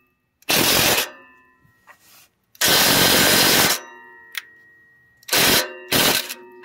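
An impact wrench rattling in four bursts: a short one, a longer one of about a second, then two short ones near the end, working on the van's exhaust pipe fittings. After each burst the metal exhaust pipe rings briefly.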